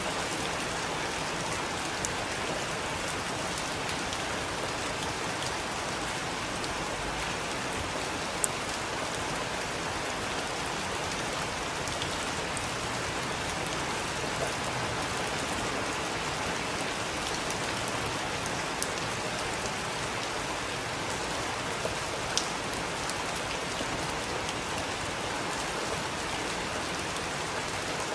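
Heavy rain falling steadily, a dense even hiss with a few sharp drop ticks scattered through it.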